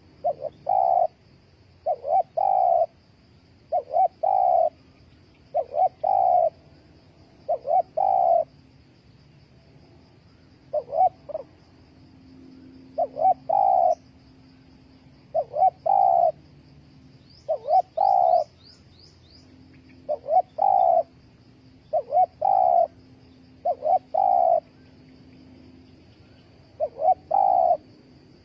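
Spotted dove cooing: short groups of two or three low coos repeated about every two seconds, with a brief pause about halfway through. A steady high trill runs underneath.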